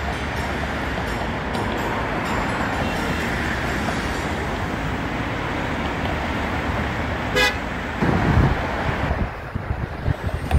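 A passing train's steady rolling rush with one short horn toot about seven seconds in; the rush drops away about nine seconds in, leaving uneven low buffeting.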